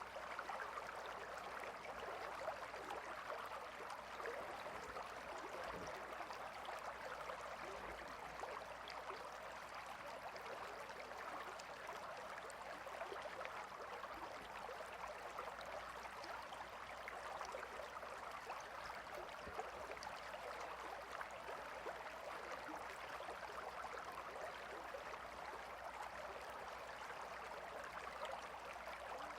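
Gentle river flowing: a steady, soft rush and babble of water that does not change.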